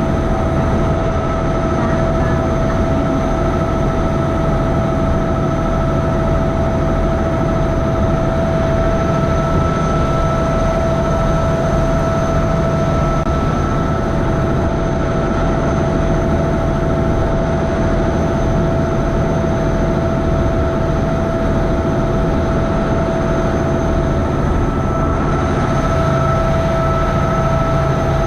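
A river boat's engine running steadily: a low drone with a constant whine over it.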